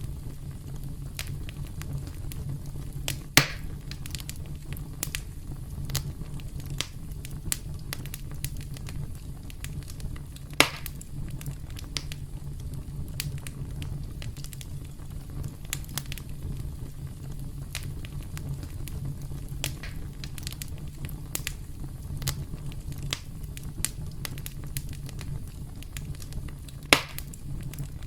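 Campfire crackling: a steady low rumble of burning wood with irregular sharp snaps, and three louder pops, about three and a half seconds, ten and a half seconds and twenty-seven seconds in.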